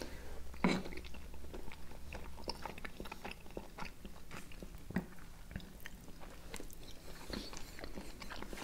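Close-miked chewing of soft boiled vareniki with yogurt: a steady run of small mouth clicks, with one louder click near the start.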